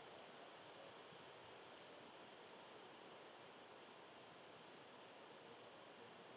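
Faint, very high, thin call notes from a small bird, about seven short chips at irregular intervals, the loudest a little past the middle, over a quiet steady outdoor hiss.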